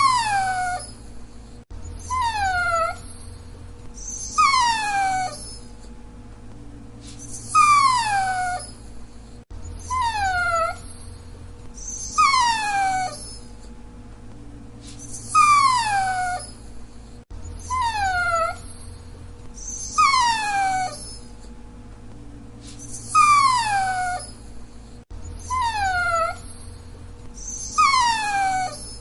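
Dachshund whining: a string of short, high whines, each sliding down in pitch, coming every two to three seconds in sets of three that repeat over and over.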